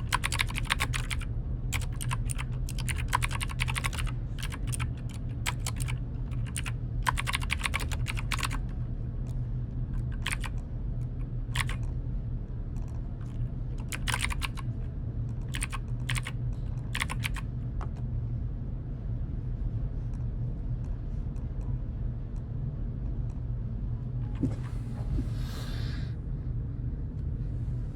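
Typing on a computer keyboard in bursts of rapid keystrokes, which stop about two-thirds of the way through, over a steady low hum.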